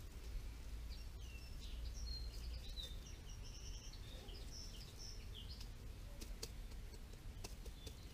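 A small songbird singing a run of short, high chirps for a few seconds, over steady low background rumble, with a few faint clicks.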